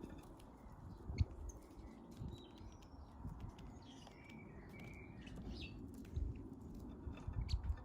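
Small garden birds chirping at a feeder: scattered short, high chirps with a couple of longer notes in the middle, over a steady low rumble that swells near the end.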